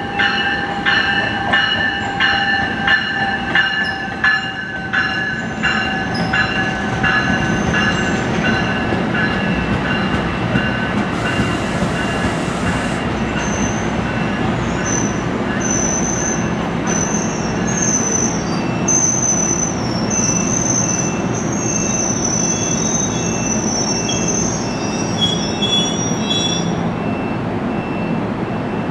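NJ Transit Bi-Level commuter train rolling slowly into a station, the cars giving a steady rumble. A regular ringing stroke about twice a second fades out in the first third. High-pitched wheel squeal wavers through the middle and later part as the train slows.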